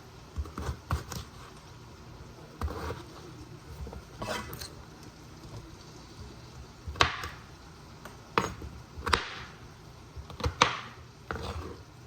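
Knife chopping raw potatoes into cubes on a cutting board: irregular sharp knocks of the blade hitting the board, with pauses between cuts.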